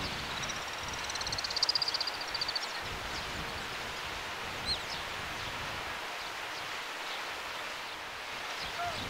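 A small bird gives a rapid high trill of about two seconds near the start. A couple of single short chirps follow later, over a steady outdoor background hiss.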